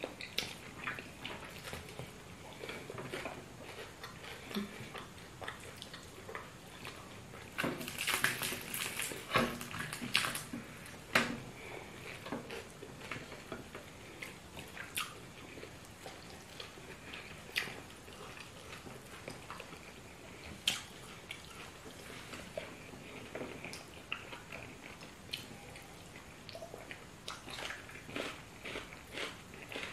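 Close-up eating sounds of two people: chewing, lip smacking and the squish of banku and fried fish eaten by hand, with scattered soft clicks and a busier patch of crisp mouth noises about eight to eleven seconds in.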